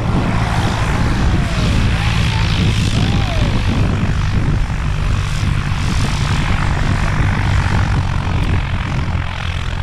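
Propeller-driven light aircraft engine running steadily, with a constant low drone.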